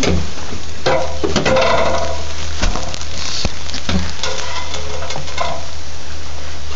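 Heavy rain falling, a loud steady hiss with scattered sharp taps and a few brief knocks.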